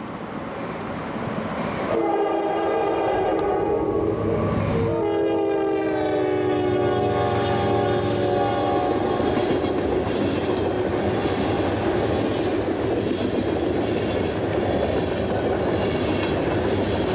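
Norfolk Southern freight train led by an SD70 locomotive sounding its multi-note horn in two long blasts, the second dropping in pitch as the locomotive passes. Then the steady rumble and wheel clatter of the trailing locomotive and covered hopper cars rolling by.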